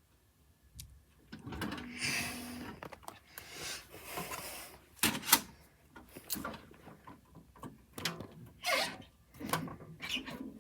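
Handling noise of a DVD being loaded: irregular rustling and scraping of plastic, with a few sharp clicks, two close together about five seconds in.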